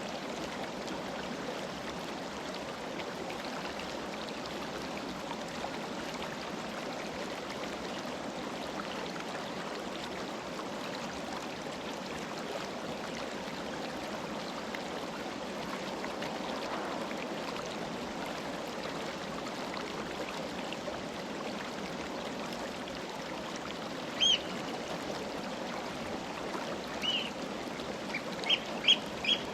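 Mountain river flowing over rocks: a steady rush of water. Short high bird chirps come in near the end, one alone and then a quick run of several.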